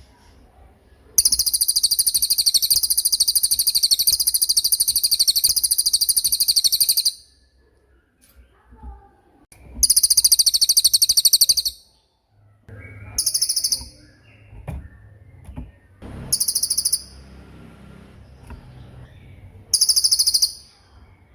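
A small songbird's very rapid, high-pitched rolling trill, one long run of about six seconds followed by four shorter bursts, each shorter than the last. This is the fast 'tembakan' rattle prized as training song for competition birds.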